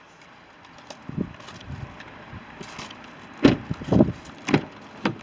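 A few dull knocks and clunks: a faint one about a second in, then four louder ones in quick succession in the second half.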